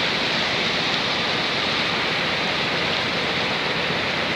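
Fast-flowing floodwater rushing, a steady even noise with no breaks.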